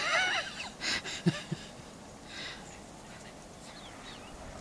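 A dog gives a brief, wavering whine at the start, then a few short, breathy puffs of air and soft low sounds.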